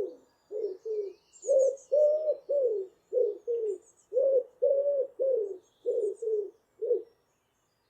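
Pigeon cooing: a run of low coos in groups of two and three, some held and falling in pitch at the end, stopping about seven seconds in. Faint high chirps of other birds in the dawn chorus sound behind.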